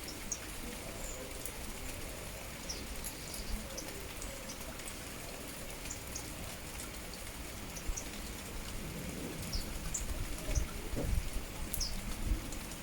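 Steady rain falling, with short high bird chirps scattered through it. A low rumble grows louder in the last few seconds.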